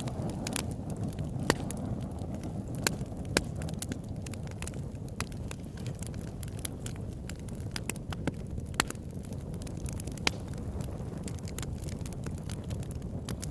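Campfire burning: a steady low noise of flames with irregular sharp crackles and pops from the burning wood, a few of them louder.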